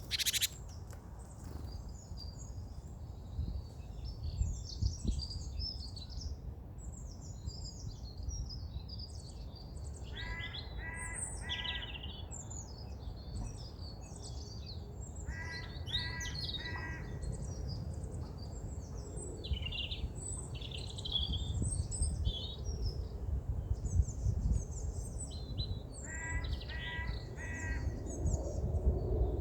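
Several songbirds singing at once, a dense chorus of high chirps and trills. Three bouts of harsh repeated calls, about four notes each, come around 10, 16 and 27 seconds in, over a low steady rumble.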